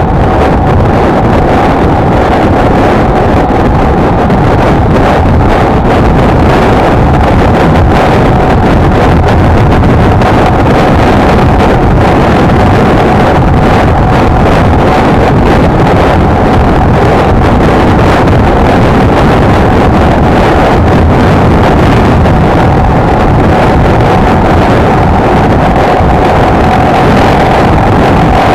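Honda XLR125R's single-cylinder four-stroke engine running at a steady cruising speed while riding, its pitch holding almost level, under heavy wind noise on the microphone.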